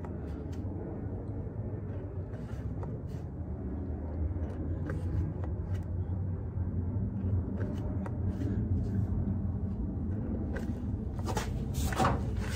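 Hand pump on a bottle of marine gear oil being worked slowly to fill an outboard's lower unit, with light scattered clicks and a few louder clicks near the end, over a steady low hum.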